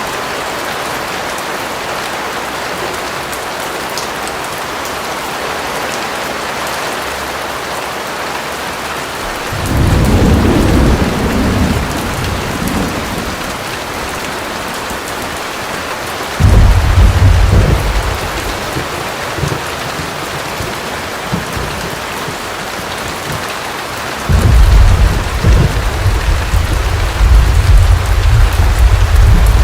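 Steady heavy rain, with rolls of thunder rumbling low three times: about a third of the way in, near the middle, and a longer roll from about 24 seconds on.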